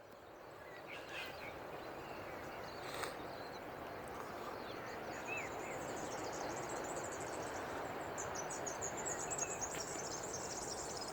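Outdoor morning ambience: a steady rushing background with a few scattered bird chirps. A fast, high pulsing trill joins about halfway through and grows stronger near the end. The sound fades in at the start.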